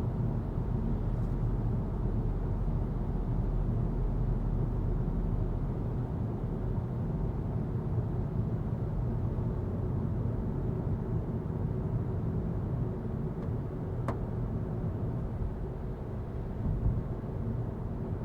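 A 2025 Volkswagen Golf TDI diesel car driving, with a steady low rumble of engine and road noise. A single sharp click comes about 14 seconds in.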